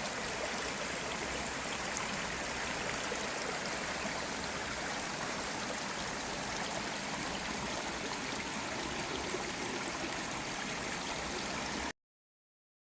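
Valley stream water running steadily over rocks, an even rushing and trickling that cuts off suddenly near the end.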